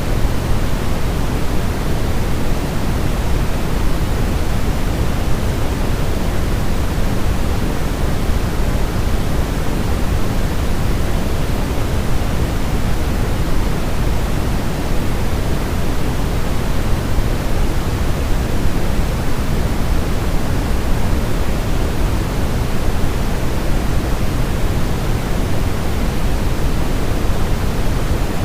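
Steady, unchanging synthetic white noise for baby sleep, a loud even hiss weighted toward the low end, meant to mimic the sound of the womb.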